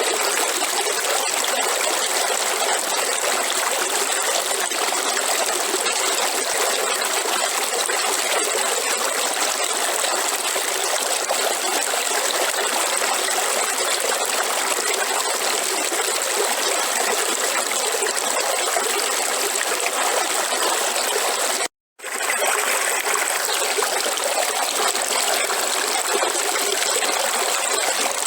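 Waterfall water falling and splashing in a steady, even rush. The sound cuts out completely for a moment about three-quarters of the way through, then resumes.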